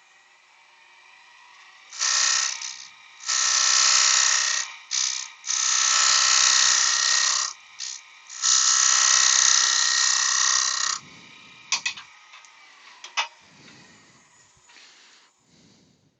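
Lathe tool cutting spalted beech on the spinning workpiece in several short passes, taking a recess down a bit at a time to fit a hinge; then a few sharp clicks.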